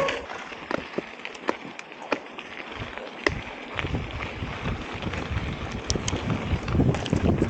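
Bicycle rolling over a dirt trail: tyre noise with scattered sharp clicks and rattles. From about four seconds in, wind buffets the microphone in low gusts.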